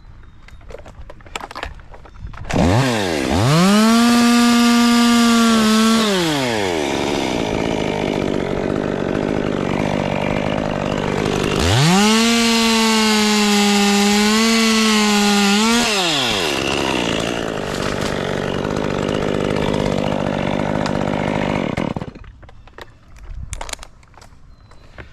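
Chainsaw revved up to full throttle twice, each burst held about three to four seconds with a slight wavering in pitch before winding back down, typical of a saw cutting wood. Running noise continues between the bursts and stops abruptly near the end.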